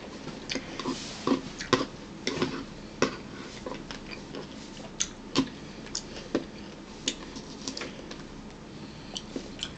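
Eating sounds close to the microphone: irregular, sharp, wet clicks and smacks of chewing.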